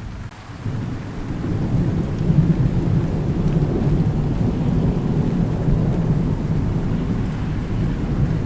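Thunder rumbling low and long through steady rain, swelling about a second in and rolling on.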